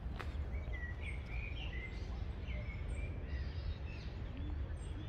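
Small birds chirping several times, short quick calls mostly in the first few seconds, over a steady low rumble.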